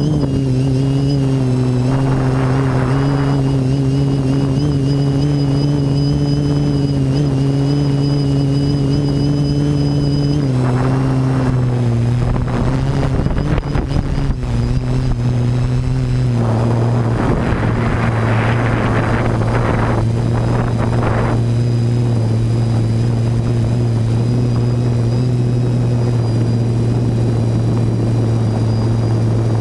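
TBS Discovery quadcopter's electric motors and propellers droning steadily. The pitch steps down slightly a few times, and several bursts of rushing noise pass over the drone, the longest a little past halfway.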